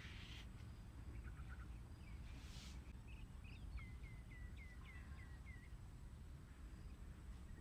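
A small bird singing a quick series of about seven down-slurred whistled notes, at roughly four a second, after a few scattered chirps. Two brief soft rustles and a low steady background rumble are also heard.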